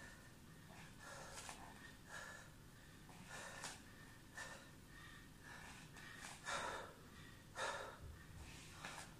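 A person breathing hard during exercise, faint, with short sharp exhales about once a second; two stronger ones come about two-thirds of the way through.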